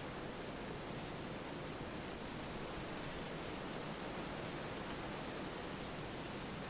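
Steady wind rustling through forest trees, an even hiss with no rises or gusts.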